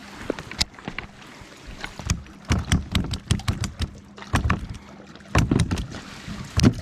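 Irregular knocks, clicks and heavier thumps against a plastic fishing kayak, with the loudest thumps in the second half.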